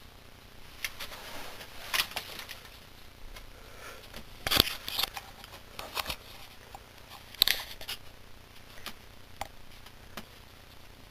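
Irregular light clicks and short rustles of small objects being handled or moved, the sharpest about four and a half and seven and a half seconds in.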